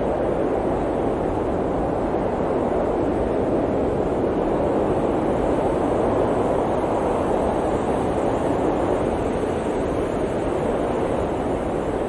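Blizzard wind blowing steadily: an even, low-pitched rushing noise with no single gusts standing out.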